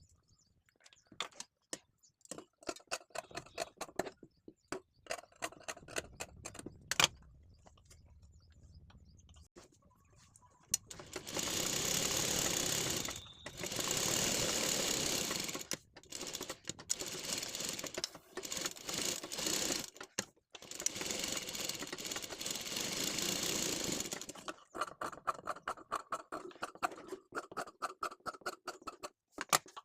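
Sewing machine stitching, first in short runs of separate stitch clicks, then running fast in several long bursts with brief stops, and slowing back to separate stitches near the end.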